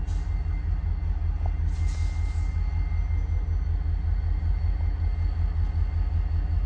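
CSX diesel locomotive engine running steadily during yard switching, a low pulsing rumble with a faint steady hum above it.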